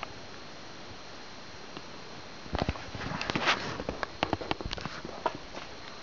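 A person breathing and sniffing close to the microphone while walking: steady faint hiss at first, then from about two and a half seconds in a run of irregular knocks and clicks with a breathy rush of air.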